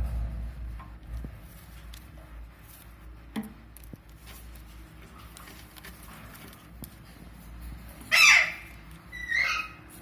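Parrot giving two loud, harsh squawks about a second apart near the end, over a low background rumble.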